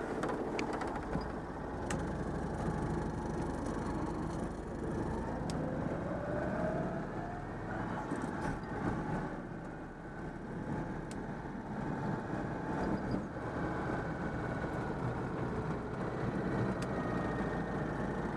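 Citroën 2CV's freshly overhauled air-cooled flat-twin engine driving the car along, its note rising as it revs up about six seconds in, then easing off briefly around ten seconds before pulling steadily again.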